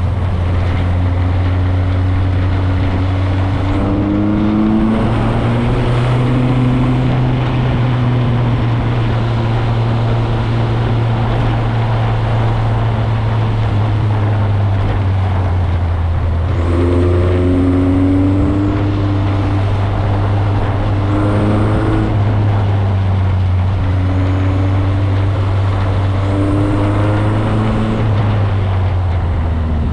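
Motorcycle engine running under way, its pitch rising several times as it accelerates and dropping back in between, as at gear changes.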